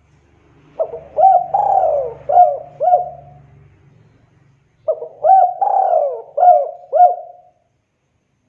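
Spotted dove cooing: two repeated phrases of about five coos each, some of the notes falling in pitch, separated by a short pause.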